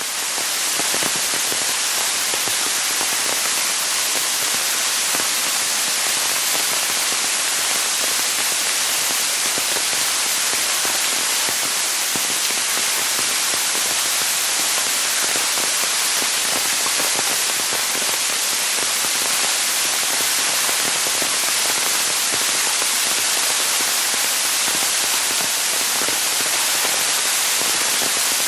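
Waterfall: the steady, even rush of falling water, loud and hissy with most of its weight in the high end.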